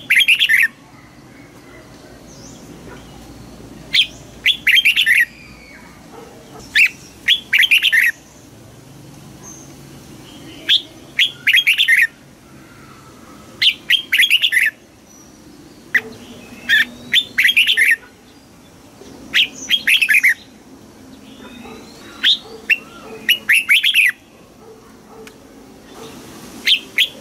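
Red-whiskered bulbul singing: short phrases of rapid, whistled up-and-down notes, repeated about every two to three seconds.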